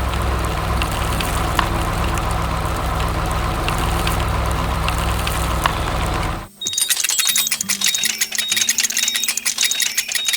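Excavator engine running steadily. About six and a half seconds in it cuts off and music takes over: fast ticking with a repeated high beep over a stepping bass line.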